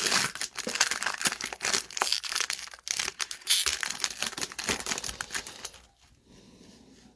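Trading card pack wrapper crinkling and tearing as a pack of baseball cards is opened, a dense run of crackles that stops about six seconds in.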